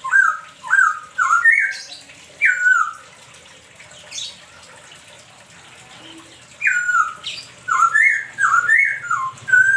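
A songbird calling in loud, short whistled notes, each stepping down in pitch. There is a quick run of about seven notes, a pause of a few seconds, then another run near the end.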